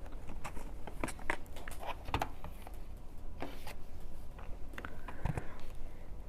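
Scattered light clicks and soft rustles of a boxed thermometer being handled, over a low steady room hum.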